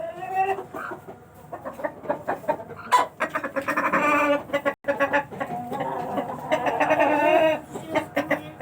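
Aseel chickens clucking and giving drawn-out, wavering calls, with short sharp clucks between them and a brief break near the middle.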